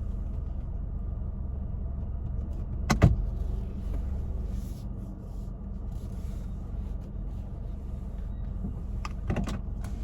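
Car engine idling, heard from inside the cabin as a steady low hum, with one sharp knock about three seconds in and a couple of clicks near the end.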